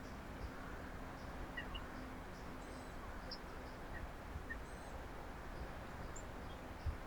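Outdoor backyard ambience with a steady low hum and background noise, a faint regular high ticking about three times a second, and a few brief, faint bird chirps. A single low thump comes near the end.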